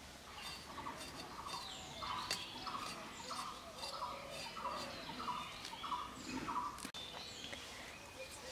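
Birds calling: one bird repeats a short, slightly falling note about nine times, roughly one and a half a second, with smaller birds chirping higher over it.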